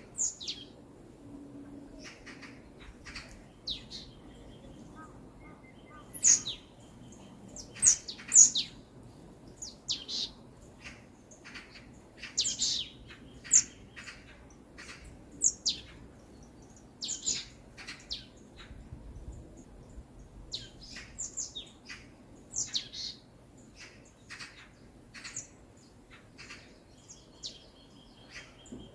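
Songbirds chirping: many short, high calls scattered irregularly, loudest around a third of the way in, over a faint background hush.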